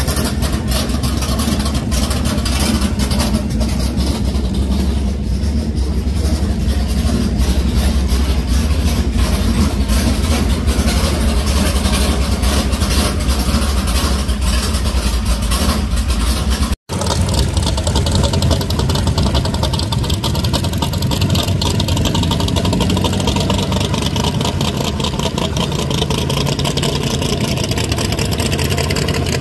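Hot-rod car engines idling loudly with a rapid, choppy exhaust beat. The sound drops out for an instant about 17 seconds in, and after that a Chevy II Nova drag car is idling as it pulls away.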